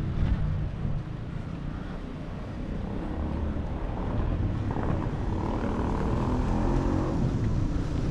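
Car engine running with low road rumble, heard from inside the car, growing gradually louder from about two seconds in.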